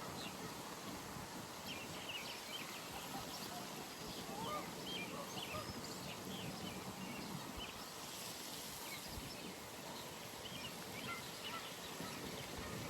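Early-morning pond ambience: many short bird chirps and calls scattered over a steady background hiss.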